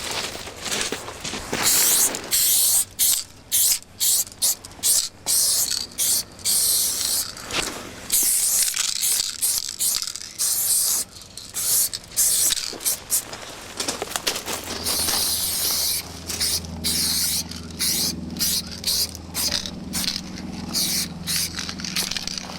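Aerosol spray-paint cans hissing in many short stop-start bursts and some longer sprays. A low steady hum joins in about two-thirds of the way through.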